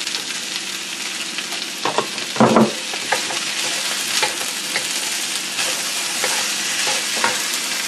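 Sliced vegetables and raisins sizzling in a hot stainless-steel wok while it is shaken and stirred: a steady frying hiss with a few short knocks of pan and utensil, the loudest about two and a half seconds in.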